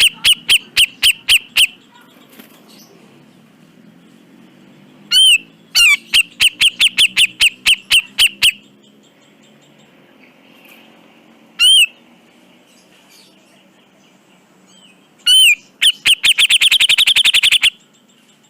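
Cucak jenggot (grey-cheeked bulbul) calling in bouts of sharp, loud, repeated notes, about four a second. The last bout near the end speeds into a fast rattling trill.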